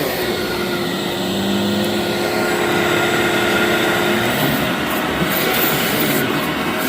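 Vacuum cleaner running steadily on a rug, a loud even rushing with a faint steady hum.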